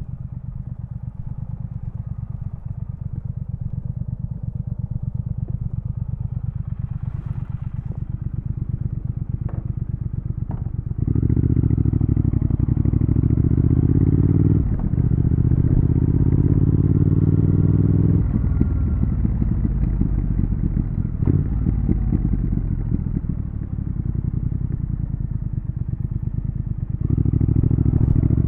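Triumph Thruxton RS's 1200 cc parallel-twin engine running at low revs with an even pulse, slowly getting louder. About eleven seconds in it opens up and the revs climb, break with a brief dip in the middle, then climb again. It settles to a steadier pace before getting louder again near the end.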